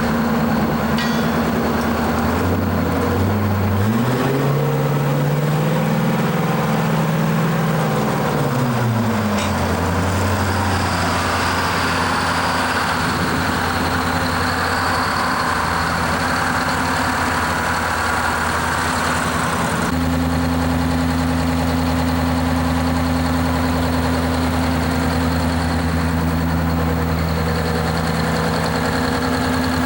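A heavy truck's diesel engine idling. It is revved once, about four seconds in, held up briefly and let back down to idle. The sound changes abruptly about twenty seconds in to a steadier, deeper idle.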